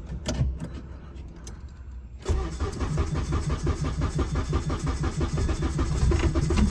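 Car engine cold-started: after a few faint clicks, it fires up suddenly about two seconds in and keeps running, growing steadily louder.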